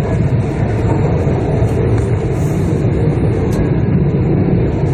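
Steady rumble of a Shinkansen train running along the line, heard from inside a passenger car.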